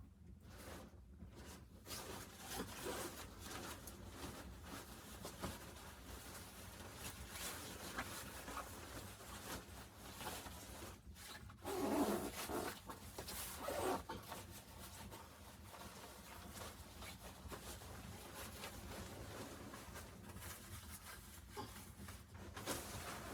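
Rustling and rubbing of fabric and gear being handled up close, with louder scraping bursts about twelve seconds in and again near fourteen.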